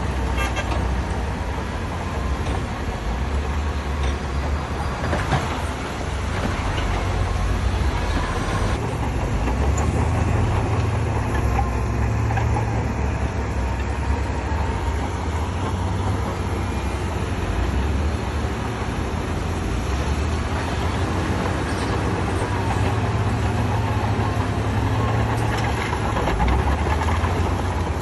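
Diesel engines of heavy earthmoving machinery running steadily with a low rumble and a few faint knocks.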